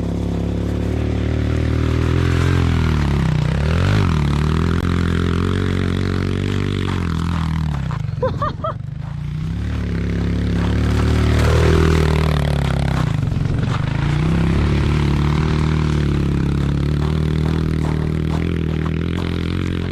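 Dirt bike engine revving as the bike is ridden, its pitch falling and climbing again several times as the throttle is rolled off and reopened, with clear dips about three, eight and thirteen seconds in.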